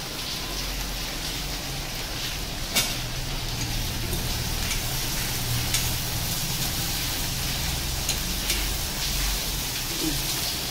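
Onion and prawn masala sizzling gently in an iron kadai as a steel spatula stirs it, with a few sharp knocks of the spatula on the pan about three seconds apart, over a steady low hum.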